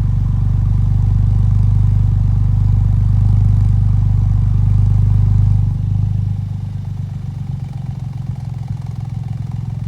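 Suzuki Alto Works kei car's three-cylinder turbo engine idling through a Kakimoto aftermarket muffler, a steady low exhaust note. About six seconds in it becomes quieter and the deepest part of the note drops away, then it idles on steadily.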